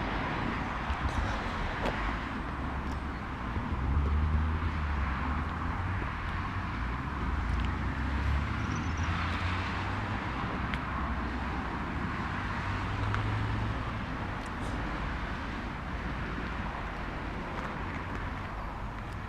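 A car engine running steadily, with a deeper hum that swells between about four and eight seconds in.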